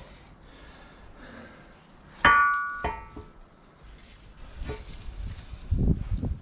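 A sharp metal clang that rings on for about half a second, then a second clank right after, and dull low thuds near the end: heavy steel excavator parts being handled and set down.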